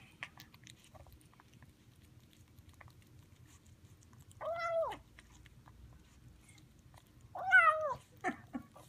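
Highland Lynx kitten eating and making two short meow-like calls, each rising then falling in pitch, about four and a half and seven and a half seconds in. Faint clicking of chewing comes between the calls.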